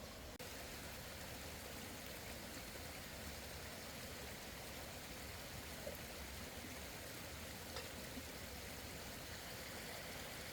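Rain falling steadily: a faint, even hiss with a couple of light drip-like taps midway.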